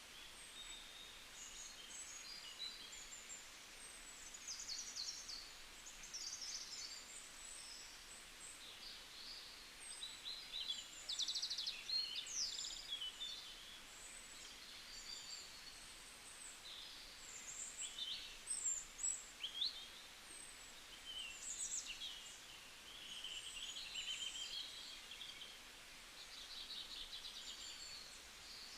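Small birds chirping and trilling in many short, high calls, over a faint steady hiss.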